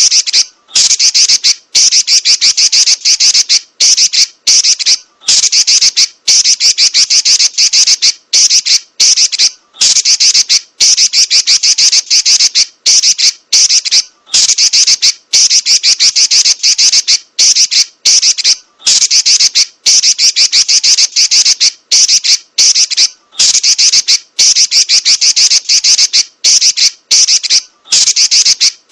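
Female Pekin robin (red-billed leiothrix) giving a loud, rapid, scratchy chatter in rolling runs, each a second or two long with short breaks between.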